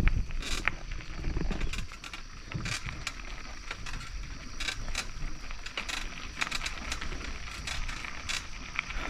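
Bicycle ridden over a rough forest track: scattered rattles and clicks over a steady hiss, with a few low thumps in the first two seconds.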